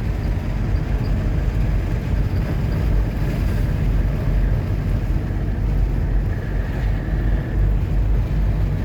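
Steady road noise and engine drone heard from inside a car driving at highway speed, with some wind on the microphone.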